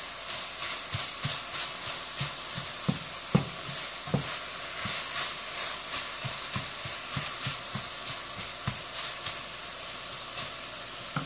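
Chicken sausage and diced vegetables sizzling in freshly added olive oil in a stainless steel skillet, with a steady hiss. A spatula stirs the food, giving irregular taps and scrapes against the pan.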